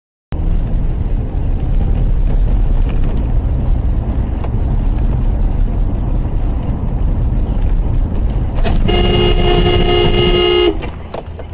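Car audio recorded by a dash camera: a steady low road and engine rumble, then a car horn sounds for about two seconds near the end and cuts off sharply.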